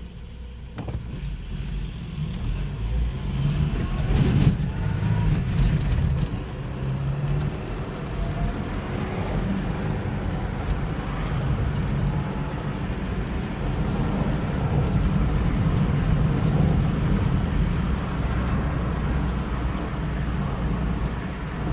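1985 Toyota Pickup truck on the move: its engine rises in pitch as it accelerates over the first few seconds, then runs steadily with road noise.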